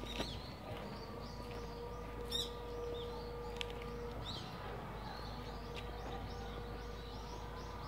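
Birds chirping outdoors, short high calls repeating, with a rapid run of chirps in the second half, over a faint steady hum.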